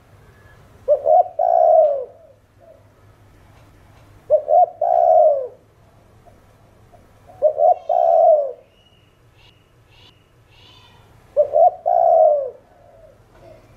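Spotted dove cooing: four phrases about every three and a half seconds, each two quick short notes followed by a longer coo that falls in pitch.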